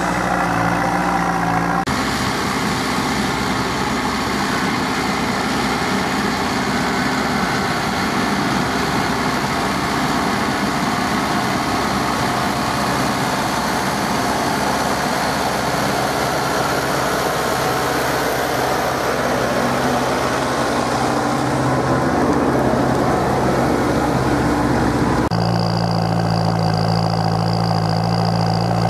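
Farm tractor diesel engine running steadily, the sound changing abruptly about two seconds in and again near the end.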